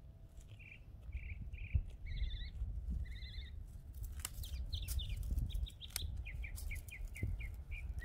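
Small birds chirping over and over, with a quick run of short falling chirps in the second half, over a low rumble, with a few sharp clicks.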